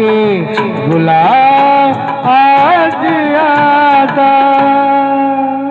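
Solo vocal melody in Hindi film-ghazal style, sung as a wordless, ornamented run with quick glides between notes. It settles into a long held note near the end.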